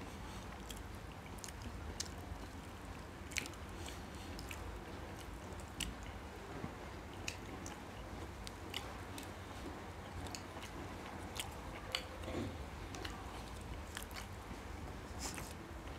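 Two people quietly chewing small gulab jamun, with faint scattered clicks about every second or two over a low steady room hum.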